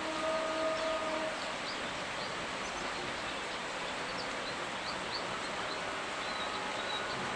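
Steady rainfall hiss with scattered short, high chirps. A steady hum stops about a second in.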